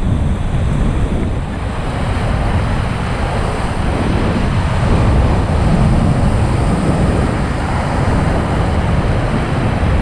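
Loud, steady rush of the Beas River's whitewater rapids around a raft, with wind buffeting the microphone.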